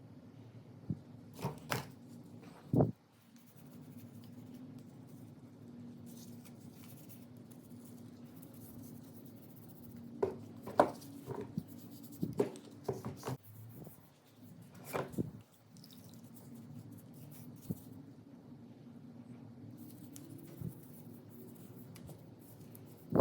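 Scattered knocks and clicks of hand work, in a few short clusters, over a steady low hum.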